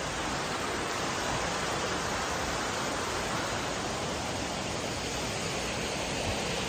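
Steady rush of water from a waterfall stream, an even hiss with no breaks.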